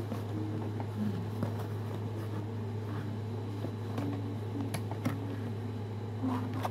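Steady low hum like a running room fan, with scattered light clicks and a few short faint tones over it.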